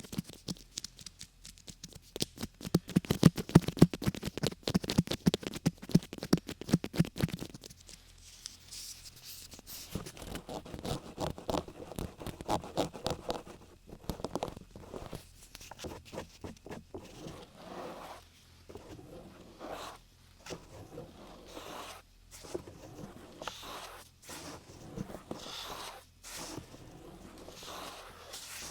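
Close-miked ASMR trigger sounds: rapid, loud tapping for about the first seven seconds, then quieter scratching and scraping sounds.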